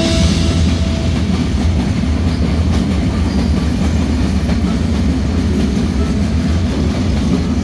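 A train running by on the railway: a loud, steady rumble of wheels on the rails.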